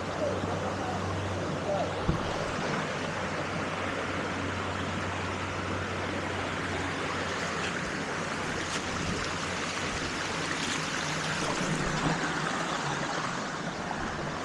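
Waterfall water rushing steadily into a pool, an even, constant hiss, with one brief knock about two seconds in.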